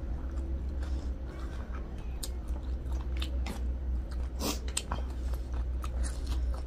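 Close-miked chewing and biting of food, with wet mouth smacks and scattered sharp clicks.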